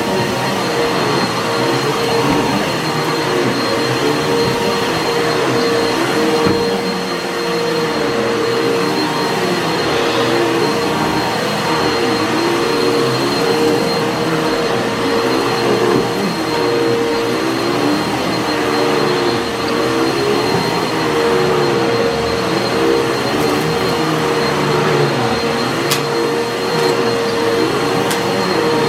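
Vacuum cleaner running steadily over carpet, its motor holding one steady hum. Grit and debris crunch as they are sucked up from deep in the pile, a sign that the carpet was left dirty underneath by an earlier vacuuming. The sound swells and dips in a slow repeating pattern with the strokes.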